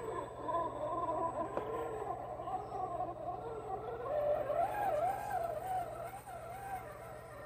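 Electric drivetrain of an RC rock crawler, a Novak 55-turn brushed motor driving through its pinion and gears, whining as the truck crawls slowly; the pitch wavers up and down with the throttle.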